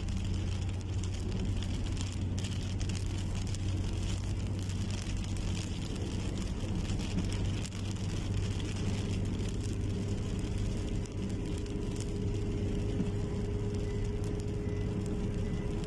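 A car's steady low rumble with light rain pattering, and a faint steady whine joining about halfway through.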